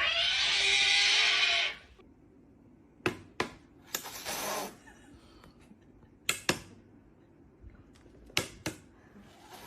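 A cat's loud, harsh yowl that stops after about two seconds, followed by a few sharp clicks and taps.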